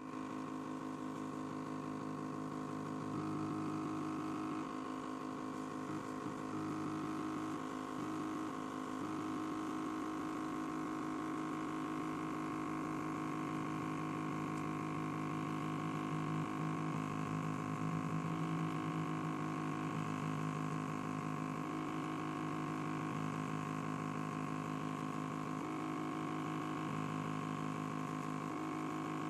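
KH56KM2U stepper motor running, a steady whining hum made of several tones whose mix shifts every second or two as the drive changes.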